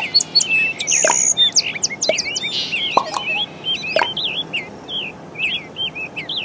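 Several small birds chirping and twittering in quick, overlapping calls, with a sharp downward-sweeping call about once a second for the first few seconds; the chirping thins out over the second half.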